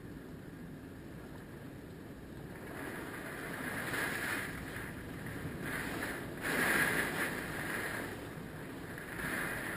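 Hurricane Michael's winds gusting over a constant low rumble: the gusts swell in about three seconds in and peak twice more, loudest a little past the middle.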